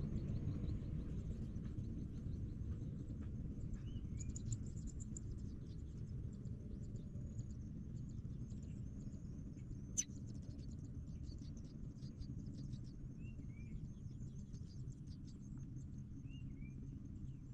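Faint high-pitched chirping and a few short two-note bird calls over a low steady rumble, with a single sharp click about ten seconds in.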